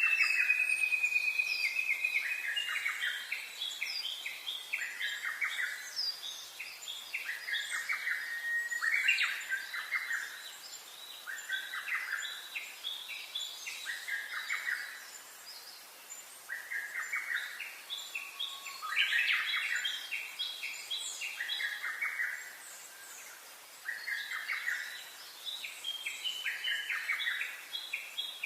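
Songbirds singing: a long, slightly falling whistle at the start, then short chirping phrases repeated every couple of seconds, with several birds overlapping.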